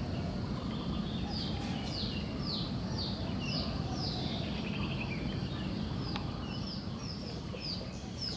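Birds calling in a long run of short chirps, each sliding down in pitch, about two a second, over a steady low outdoor rumble.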